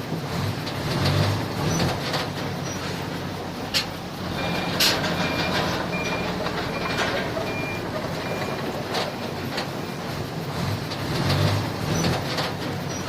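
Diesel engine of heavy earthmoving equipment running, surging now and then, with a backup alarm beeping at a steady pace for several seconds in the middle as a machine reverses. A few sharp knocks break in.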